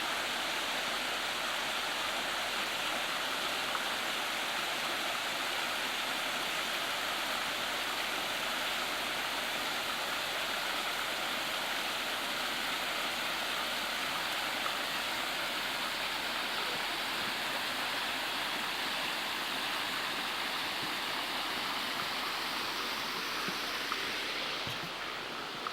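Waterfall and stream water rushing steadily. The sound dulls slightly just before the end.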